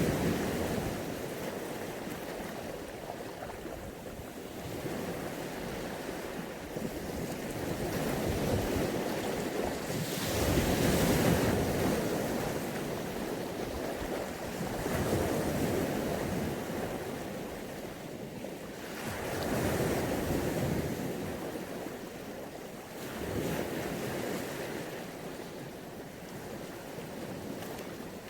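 Mediterranean Sea waves washing onto the shore, the surf swelling and fading every few seconds.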